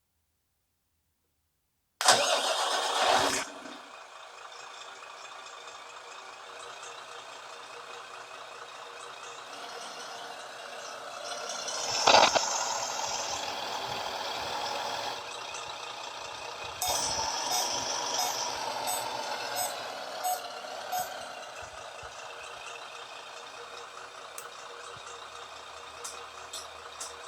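An RC truck sound module plays a simulated truck engine. It starts after a moment of silence with a loud cranking start, then settles into idle, with a louder swell about ten seconds in.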